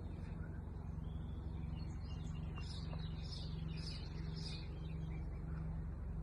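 A run of quick, high bird chirps over a steady low hum.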